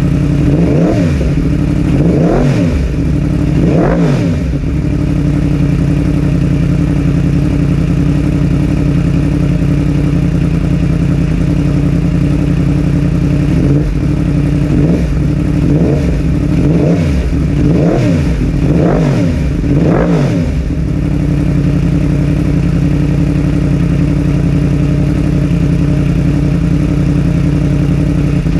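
A 2021 Yamaha R1's crossplane inline-four idling, given short throttle blips: three quick revs in the first four seconds, then a run of about seven blips roughly once a second in the middle, settling back to idle.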